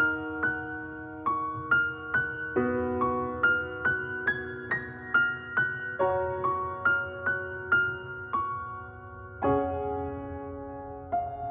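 Background music: a piano-like keyboard playing a slow, gentle melody of single notes, about two a second, over held chords, as the intro to a pop song.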